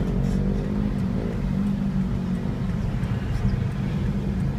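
Motor vehicle engine running with a steady low drone in road traffic.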